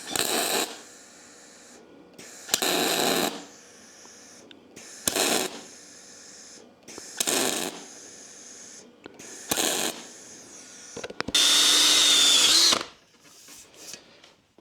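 MIG welder laying short spot welds on an aluminum wheel to fill pits and a ground-through hole: five brief arc bursts of about half a second each, a couple of seconds apart. Near the end comes a longer, louder burst of about a second and a half with a steady whine in it.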